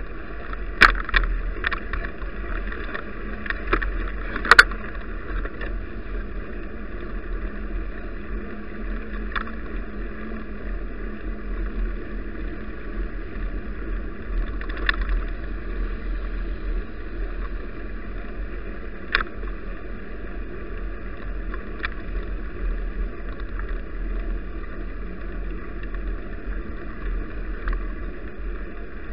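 Steady road and wind noise from a bicycle riding on snowy roads, picked up by an action camera, with a few sharp knocks and rattles, the loudest in the first five seconds.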